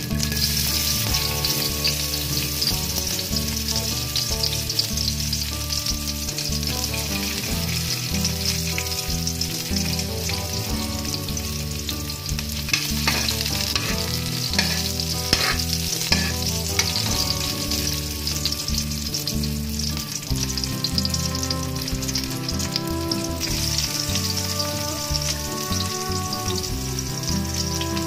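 Sliced onion and garlic sizzling in hot oil in a wok, with a metal spatula scraping and stirring them, the strokes clustered about halfway through.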